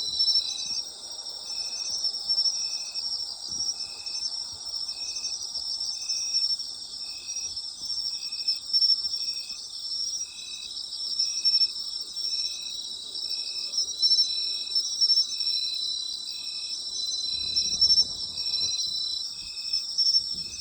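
Several insects calling together at night in autumn: a steady high-pitched buzz, a dense trilling chorus, and one insect chirping in an even rhythm a little more than once a second.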